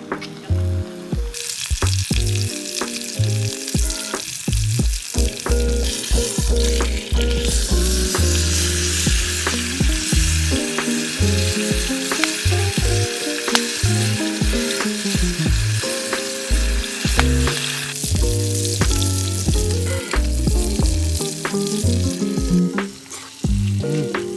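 Food sizzling as it fries, a dense hiss that starts about a second in and stops suddenly near 18 s. Background music with a bass line and steady beat runs under it.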